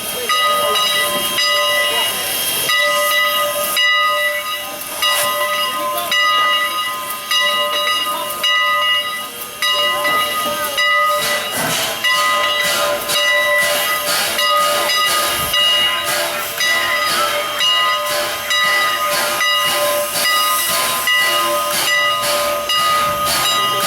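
Steam locomotive hissing steam, a continuous loud hiss with a steady high whine of several tones running through it.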